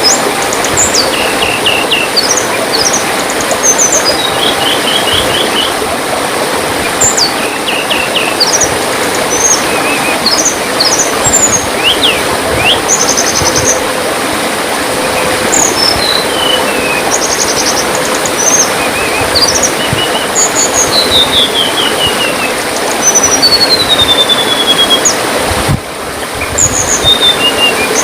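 Many small songbirds chirping and twittering, with short whistles and quick descending trills, over steady trickling water. The level dips briefly near the end.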